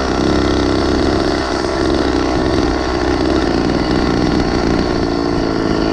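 The small engine of a motorized mini bicycle running steadily at a near-constant pitch while being ridden.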